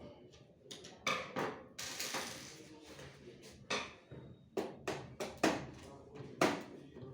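Irregular sharp clicks and knocks of small hard parts being handled, with a brief hiss about two seconds in.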